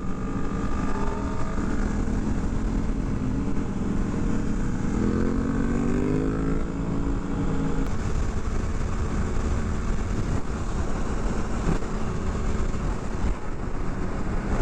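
Motorcycle engines running during a group ride, with wind rushing over the microphone. About five seconds in, one engine revs up, its pitch rising for a couple of seconds.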